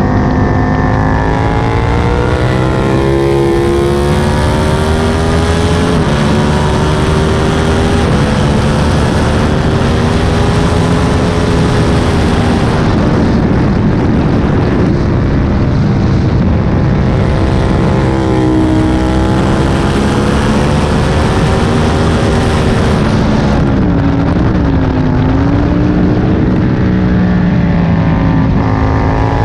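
Aprilia Tuono 1000's 60-degree V-twin engine heard on board at track pace, its pitch climbing and falling repeatedly as it is revved out, shifted and closed off for braking. Wind rushes over the microphone on the faster stretches and drops away twice, around 13 seconds in and again near 24 seconds.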